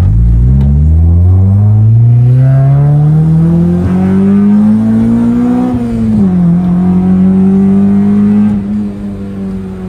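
Honda Civic SiR's engine heard from inside the cabin, pulling from low revs with its pitch climbing steadily for about six seconds. The revs then drop a little and hold steady while the car cruises.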